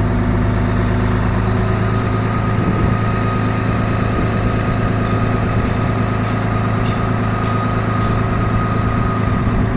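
A heavy engine idling steadily, a constant low hum with a thin steady whine above it from about two seconds in until near the end.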